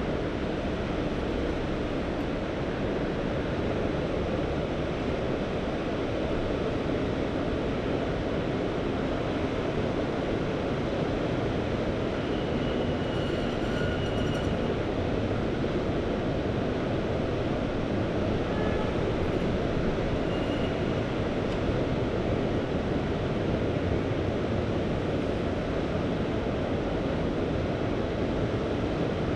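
Mediterranean Sea surf: a steady, unbroken wash of waves. A couple of faint, brief high tones sound about 13 and 20 seconds in.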